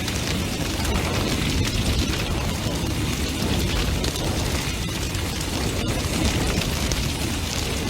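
Large bonfire burning hard: a steady low roar of flames with many small crackles and pops throughout.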